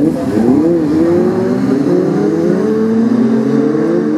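Brisca F2 stock car engines racing, several at once: their pitch dips and rises quickly at first, then climbs steadily as the cars accelerate.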